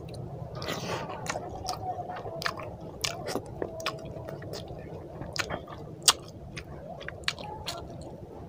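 Wet chewing of a mouthful of curry-soaked rice and fish, with frequent sharp lip smacks and mouth clicks; one louder smack about six seconds in.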